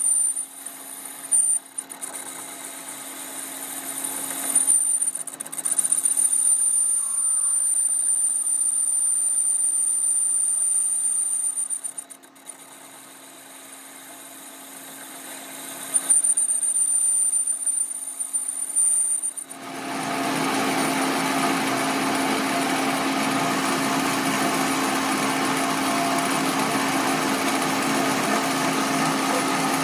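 Workshop machinery running with a steady hum and a high whine that comes and goes. About two-thirds of the way through, a louder, harsher and more even machine noise takes over and holds steady.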